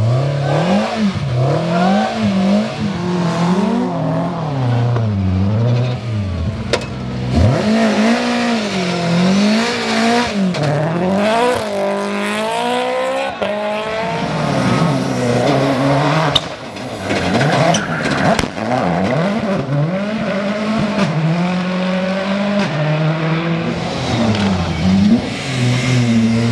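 Rally cars driven flat out on a special stage, one after another, engines revving high and dropping repeatedly through gear changes and lifts, with some tyre noise.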